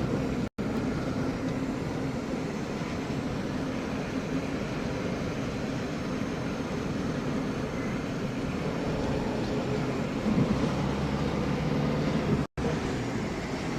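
Car engine and road noise heard from inside the cabin while driving, a steady low hum and rumble. The sound cuts out completely for an instant twice, about half a second in and near the end.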